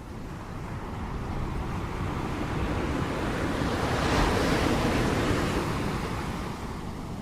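Ocean waves: a wave breaks and washes in, the rushing surf swelling to its peak about four seconds in and then falling away.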